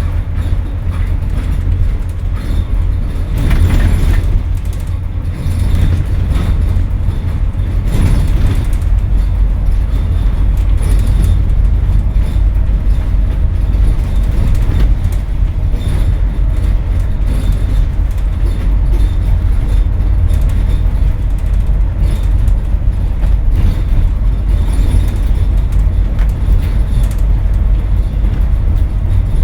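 Scania N230UD double-decker bus's five-cylinder diesel engine working hard under acceleration, heard on board as a loud, deep drone with road and body rumble. The engine note shifts a few seconds in and again about eight seconds in, then holds steady.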